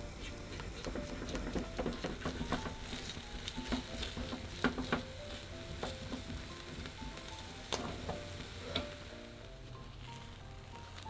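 Food sizzling in a frying pan while being stirred, with sharp clicks of a utensil against the pan; the sizzling dies down near the end. Soft piano music plays along.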